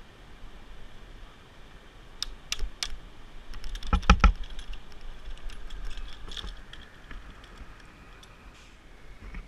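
A series of sharp clicks and knocks: three separate clicks a little after two seconds in, a louder cluster of knocks about four seconds in, then scattered fainter clicks.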